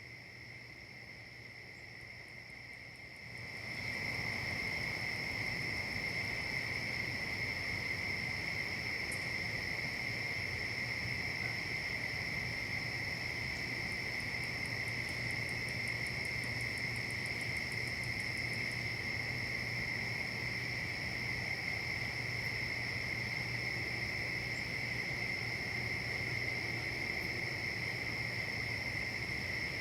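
Steady, unbroken chorus of insects, a continuous high trill with a second, higher tone above it. It gets noticeably louder a few seconds in.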